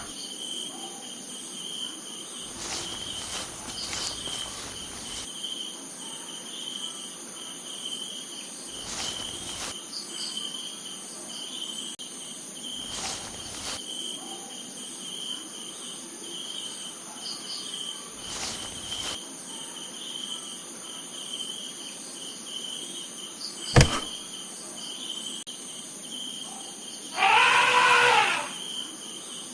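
Crickets chirping steadily in a high, pulsing trill. A sharp click comes about 24 seconds in, and near the end there is a louder pitched call lasting about a second and a half.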